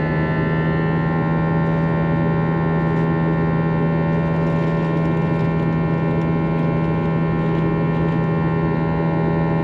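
Airbus A321 cabin drone in flight: its IAE V2500 turbofan engines and airflow make a steady low hum with a stack of even, unchanging tones above it.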